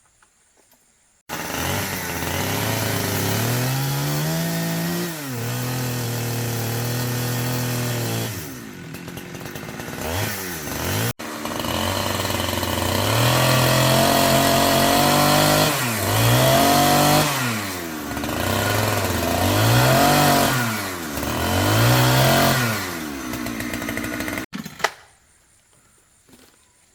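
Chainsaw running and revving up and down over and over while cutting through a log. It starts abruptly a little over a second in and stops sharply near the end.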